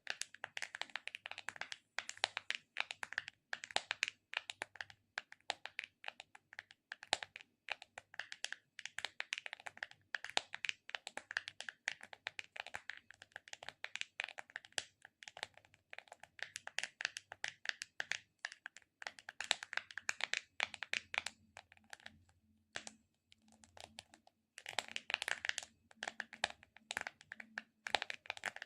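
Close-miked ASMR sticky sounds: dense, irregular crackling clicks in quick bursts, with a couple of short pauses about three quarters of the way through.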